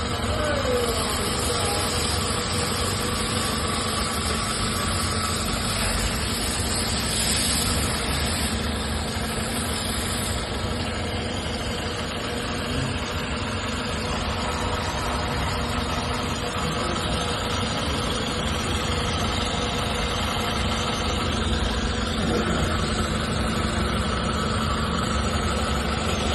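Toyota Estima ACR50W's 2.4-litre four-cylinder engine idling steadily.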